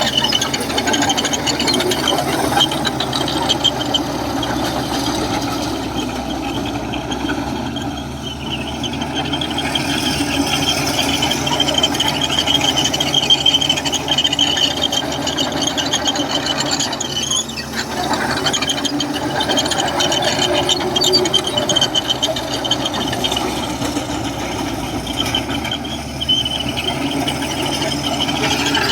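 Komatsu crawler bulldozer working: its diesel engine runs steadily under a continuous high squeal, with some rattling.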